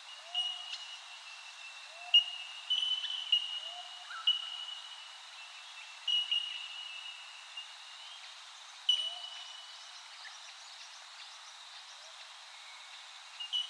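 Birds calling: repeated clear, ringing, ping-like notes that start sharply and hang for up to a second, several overlapping, with a short low rising call every second or two.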